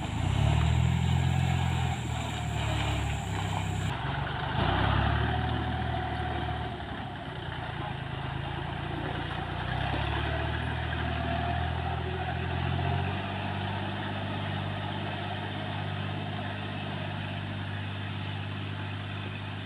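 A vehicle engine running, revving up briefly near the start and again about five seconds in, then settling into a steady idle for the second half.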